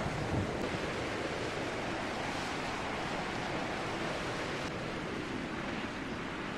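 Strong wind blowing steadily in a continuous rushing hiss, much like surf.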